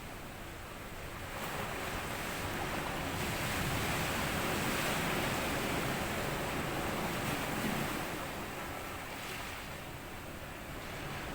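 Sea waves washing up onto a sandy beach and drawing back. A hiss of surf swells about a second in, peaks mid-way, then eases off near the end.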